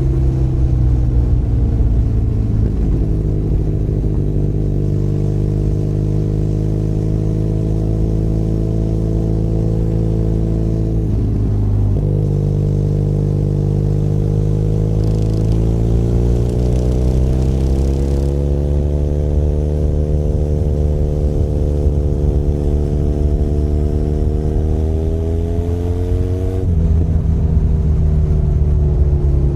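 Benelli Leoncino 500 Trail's parallel-twin engine running under way. The engine note holds steady, breaks off briefly about eleven seconds in, then rises slowly and falls sharply about three seconds before the end, as at a gear change.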